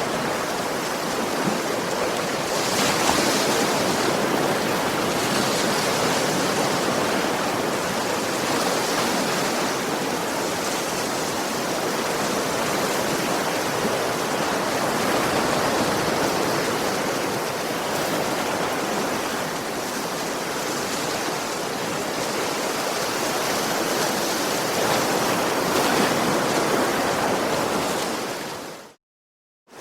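Sea waves washing onto a beach: a steady rush of surf that swells and eases slowly. Near the end the sound cuts out abruptly for about a second, then returns.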